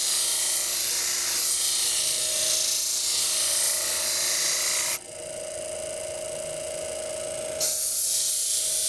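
Knife blade held against a spinning 240-grit abrasive disc on a motorised sharpener: a steady grinding hiss over the motor's hum. About five seconds in the blade comes off the disc for a couple of seconds, leaving only the motor's whine, then goes back on.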